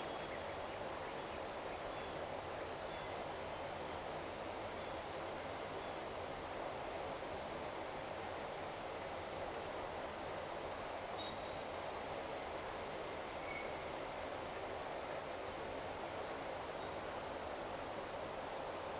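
Evening insect chorus over the paddy fields: a steady high-pitched trill, and a second high chirp pulsing a little over once a second, over a steady low rumble of background noise.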